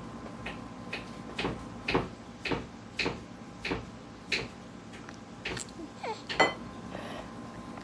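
An eating utensil clinking and knocking against a dish, a run of short light knocks about two a second. There is a brief higher sound that slides in pitch about six seconds in.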